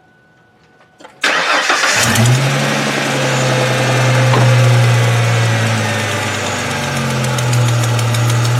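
A 2002 Ford Mustang's 3.8-litre V6 is started about a second in, catching quickly and settling into a steady idle with a ticking in it. The owner believes the tick is exhaust related: a leaking exhaust manifold gasket or a hole in the manifold.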